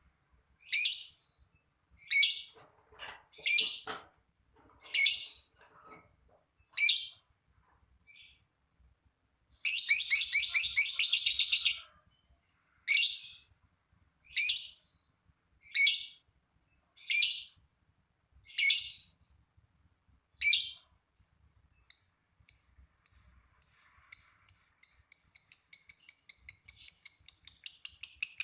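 Lovebird calling: single sharp, high chirps every second or two, with a quick two-second rattle of notes about a third of the way in. From about two-thirds through, short notes come faster and faster and run into a long, rapid chattering trill, the 'ngekek' song.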